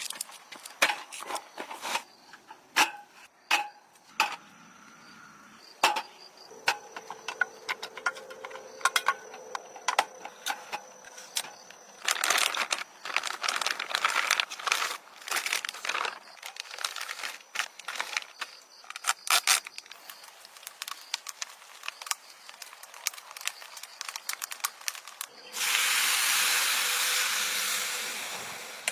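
Camp cooking handling noises: scattered clicks and knocks of utensils and food being handled. About 25 seconds in, a loud sizzle starts suddenly as food goes into hot oil in a pan, then slowly dies down.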